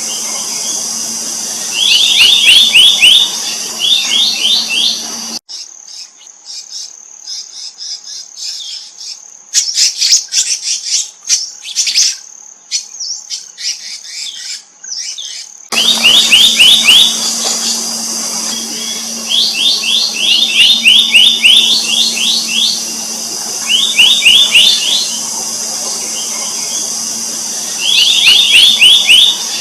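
Black-naped monarch song: rapid runs of about six to ten quick, rising whistled notes, repeated every few seconds over a steady high insect hiss and a low hum. About a third of the way in, the sound cuts to a quieter stretch of scattered high chirps and clicks for roughly ten seconds, then the runs of notes resume.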